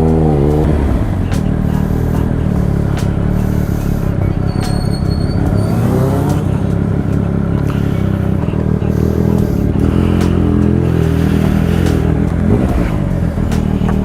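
Triumph Speed Triple RS three-cylinder engine running through an SC Project titanium exhaust while riding. Its pitch swings about a second in and climbs again around five to six seconds in as the rider works the throttle.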